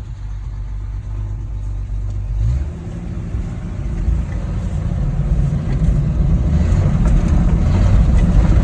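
Old Ford F-Series pickup's engine running under load as the truck drives off, stepping up in pitch about two and a half seconds in and growing steadily louder as it accelerates.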